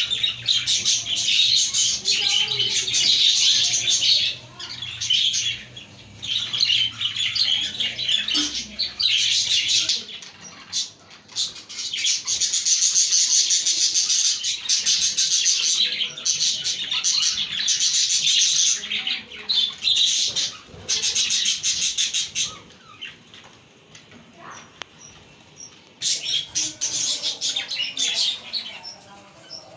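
A group of budgerigars chirping and warbling in rapid, overlapping chatter, with a lull of a few seconds near the end before the chatter picks up again.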